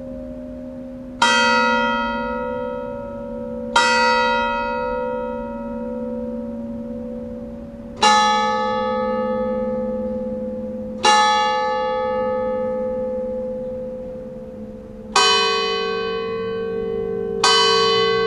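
Church bells of an eight-bell tower tolling a slow funeral toll: six single strokes a few seconds apart, each ringing on and fading slowly. The last two strokes are lower in pitch.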